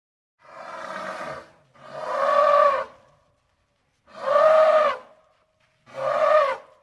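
Elephant calling: four loud calls of about a second each, each rising then falling in pitch.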